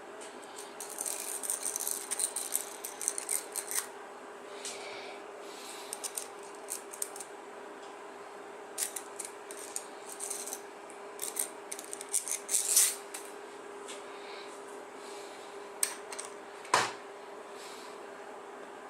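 Small metal parts and hand tools clicking, rattling and scraping in irregular bursts, with one sharper knock that rings briefly near the end, over a steady low hum.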